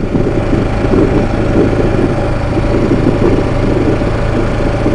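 Single-cylinder dual-sport motorcycle engine running steadily at low revs, without revving.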